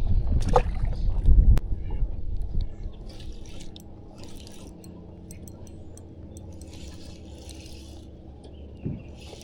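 Water splashing and dripping around a kayak, in short bursts every second or two. The first two seconds hold heavier handling noise and a sharp click.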